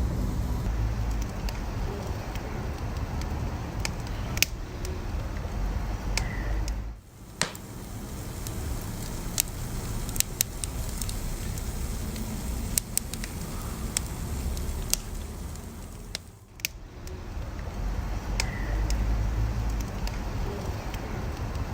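Wood fire crackling in a wood-burning stove: scattered sharp pops and snaps over a steady low rumble. The sound drops away briefly twice, about seven seconds in and again about sixteen seconds in.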